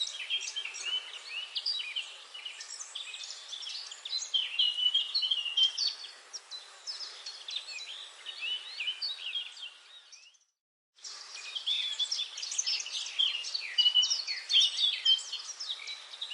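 Forest bird chorus: many songbirds chirping and trilling at once, with overlapping short calls. The sound cuts out completely for about a second about two-thirds of the way through, then the chorus resumes.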